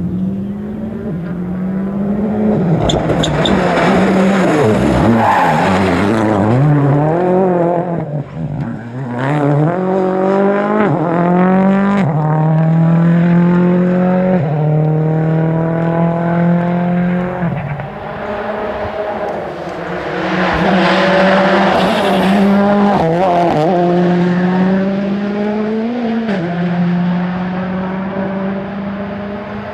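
Rally cars at full effort on a special stage, engines revving up and dropping back again and again through gear changes as they pass, with tyre noise in places.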